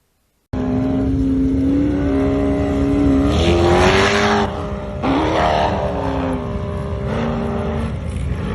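Car engine accelerating, its pitch climbing, dropping sharply about four and a half seconds in as it shifts gear, then climbing again and running steadily, with road noise underneath. It starts abruptly about half a second in.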